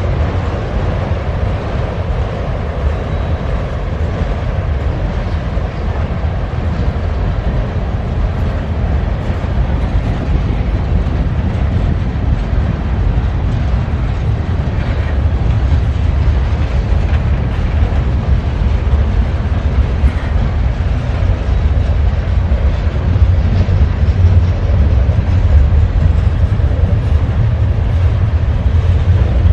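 Freight train rolling past: a steady, heavy low rumble of cars on the rails that grows somewhat louder in the second half.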